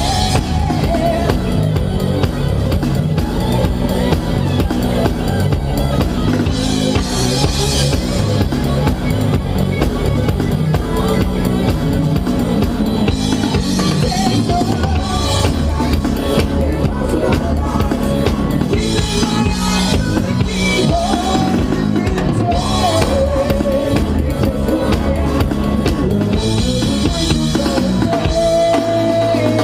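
Live rock band playing an instrumental passage: a drum kit keeps a steady beat of kick and snare under bass and a wavering lead line. Near the end the band lands on a long held chord.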